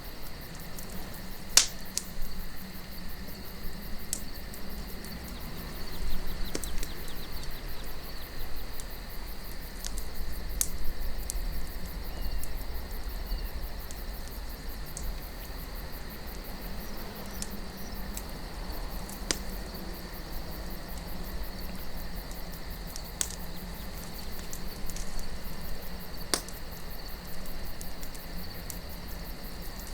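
Campfire crackling, with sharp pops of burning wood every second or few, over soft wind and a steady high-pitched drone.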